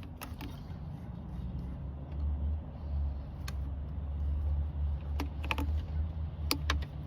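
Hands fitting plastic electrical connectors under the hood, with a few short, sharp plastic clicks scattered through, several close together near the end, over a steady low rumble.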